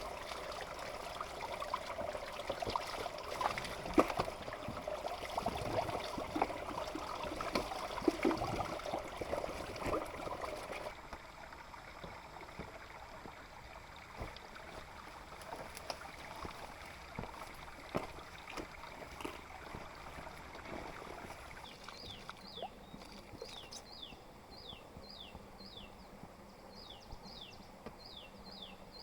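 Water trickling and splashing, with scattered small knocks, for the first third; it then stops suddenly, leaving a quieter outdoor background in which a bird repeats a short falling chirp about twice a second near the end.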